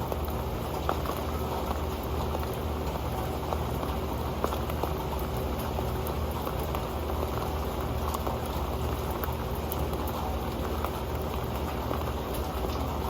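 Steady rain falling on an old pan: a dense, even patter of many small drop ticks.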